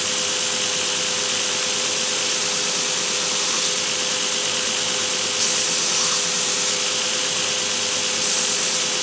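A 2x72 belt sander running at slow speed with a steady hum. Three times, each for about a second, a small strip of canary wood is pressed to the belt to true its sides, adding a louder, higher grinding hiss.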